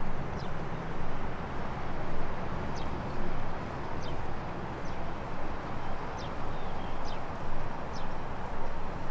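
Outdoor ambience: a steady rush that swells and fades about once a second, with short high chirps from small birds every second or so.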